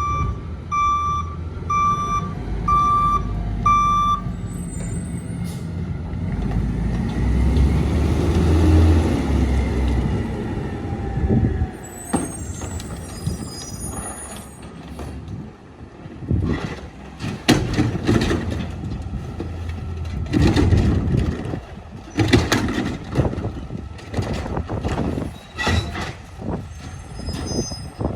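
Mack MRU rear-load garbage truck backing up, its reverse alarm beeping about once a second for the first four seconds, then a hiss of air brakes and the diesel engine revving. High squeals come a little after halfway, followed by a long run of sharp knocks and clatter.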